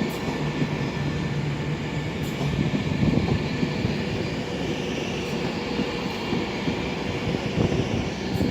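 Class 390 Pendolino electric train moving through the station: a steady rumble of wheels on the rails with traction noise, and a low hum that drops away after the first couple of seconds.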